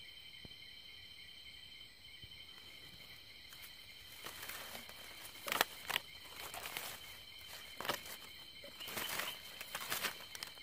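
A ground bird struggling and flapping its wings in dry leaf litter, with irregular sharp rustles and wing-beats from about four seconds in, the loudest a little after halfway. Crickets chirr steadily behind it.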